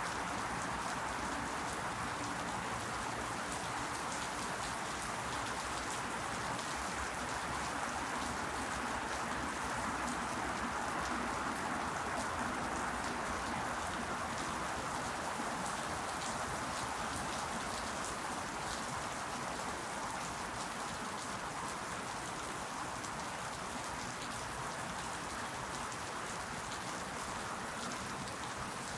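Steady rain falling, an even hiss with scattered faint taps of individual drops.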